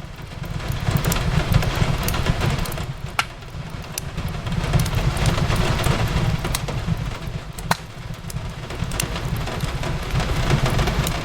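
Fireplace crackling, with scattered sharp pops, over a steady hiss of rain on a window and a low rumble.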